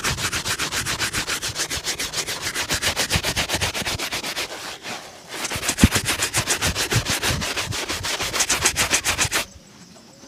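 Rapid back-and-forth buffing strokes on a shoe during a shoe shine, about six strokes a second. They come in two runs with a short pause about five seconds in.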